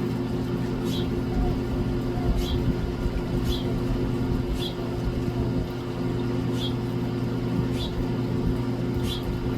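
A small bird chirping short, sharp notes about once a second, over a steady low machine hum.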